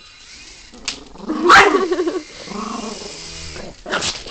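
Dog growling and barking, loudest about a second and a half in, with a sharp click shortly before and another near the end.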